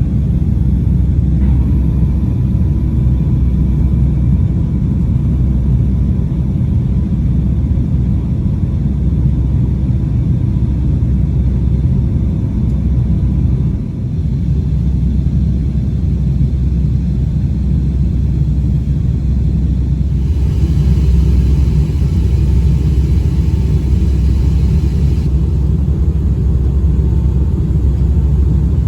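Steady low rumble of a Boeing 757-200's cabin in flight, engine and airflow noise heard from an economy seat. A faint steady tone runs underneath, and a higher hiss is added for about five seconds past the middle.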